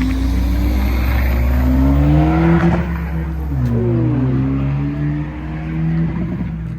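Car engine revving: its pitch climbs for about two and a half seconds, drops sharply, then holds at a steady higher idle.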